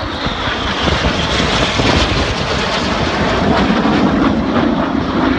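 BAE Hawk T1 jets of the Red Arrows flying past low during the display; the jet-engine noise grows steadily louder.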